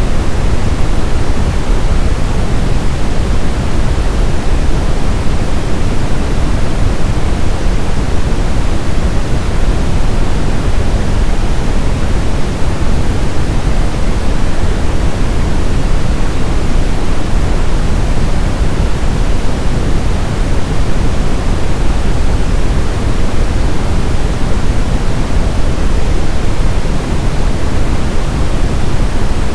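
Synthetic brown noise: a steady, unchanging hiss weighted toward the deep end, like a distant rumble.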